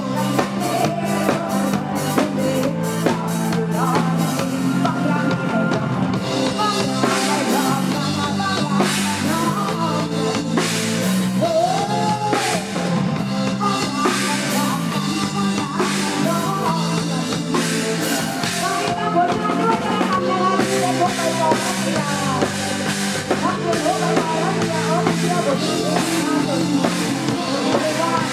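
Live Isan band music with a steady drum-kit beat and a bass line.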